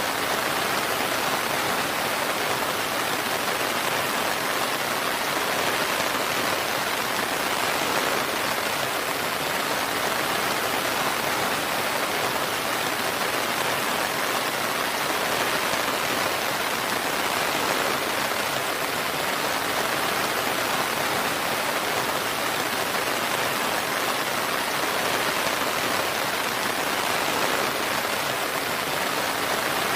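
Steady rain, an even hiss of drops falling on a surface, without thunder.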